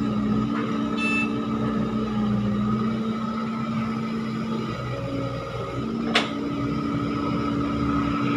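Heavy diesel earthmoving machinery running steadily, its engine pitch shifting a little, with one sharp knock about six seconds in.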